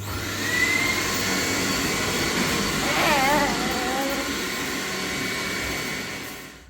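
An electric motor-driven machine switched on and running with a loud, steady rushing noise. A whine rises as it spins up at the start, and the sound winds down just before the end. A brief wavering pitched sound rises over it in the middle.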